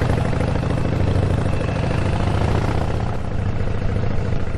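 Harley-Davidson motorcycle's V-twin engine running steadily while riding along, a low pulsing rumble.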